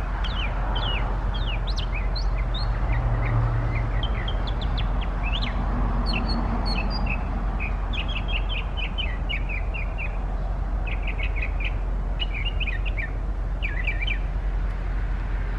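A bird singing vigorously and without pause, a long varied string of quick chirps, slurred whistled notes and short rapid trills, over a steady background hiss and hum.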